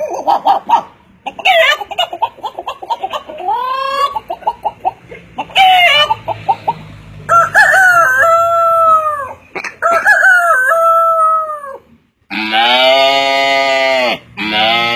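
A man imitating a chicken and a rooster with his voice: rapid clucking at first, then two long crowing calls, then two loud, buzzy held calls near the end.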